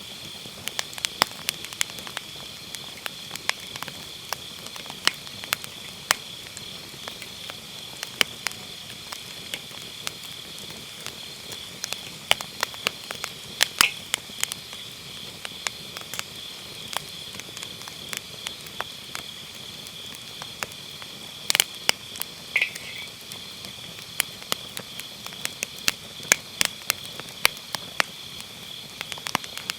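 Wood fire crackling in a round fire pit, with frequent irregular sharp pops, over a steady high chorus of autumn grass insects chirping.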